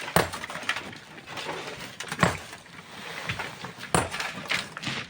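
Sharp metallic clinks and knocks of hand tools striking rock, a handful of irregular strikes over a rough scraping hiss.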